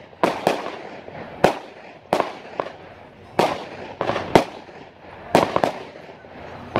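Fireworks going off: about a dozen sharp bangs at irregular intervals, some in quick pairs, each fading away in an echo.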